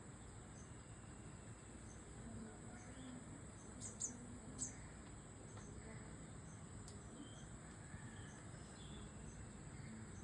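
An Indian parrot gives two short, sharp, high chirps, about four and four and a half seconds in, over a faint steady high-pitched insect-like drone.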